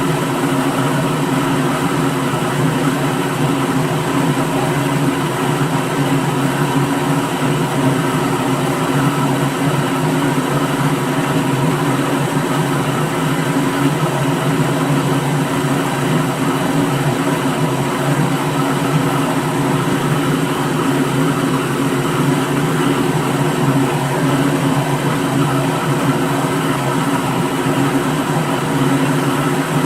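Kitchen blender running continuously at one speed, a steady motor hum with a whirring haze above it.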